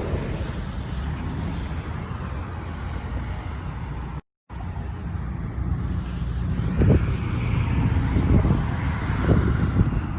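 2020 Dodge Charger Scat Pack's 392 Hemi V8 running through an exhaust with the mid mufflers removed, with a steady low rumble. After a brief cut, sharp exhaust crackles and pops come through several times over the rumble.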